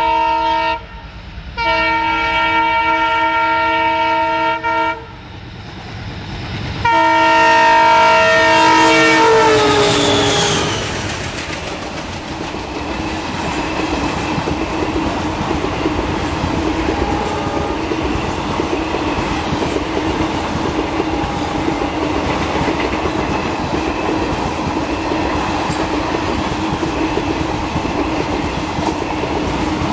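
Twin WDM-3A diesel locomotives sound their multi-tone horn in three blasts, the last one falling in pitch as they pass at speed. Then a long rake of passenger coaches rushes by, the wheels clattering over the rail joints in a steady roar.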